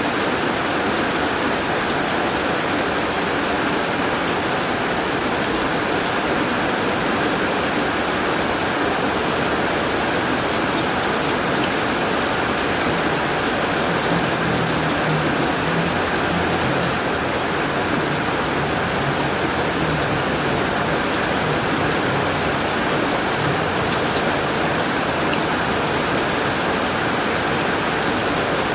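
Heavy rain pattering steadily on a tin roof, with a faint low rumble underneath in the middle.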